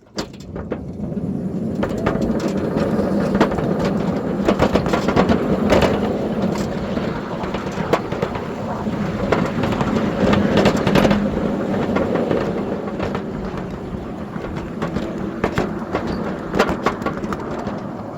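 7-1/4 inch gauge ride-on miniature train pulling away and running along the track: a steady rumble of wheels on rail with frequent clicks and knocks.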